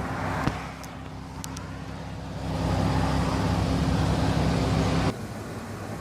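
Bentley Bentayga W12 engine running steadily, a click about half a second in, then louder for a couple of seconds before dropping back abruptly near the end.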